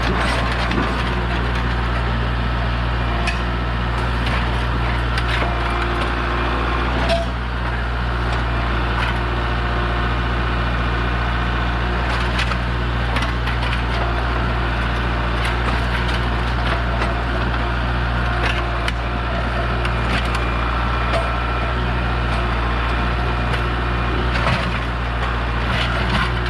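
A tractor engine running steadily under load, with irregular sharp cracks and snaps as the riding mower is crushed and broken apart.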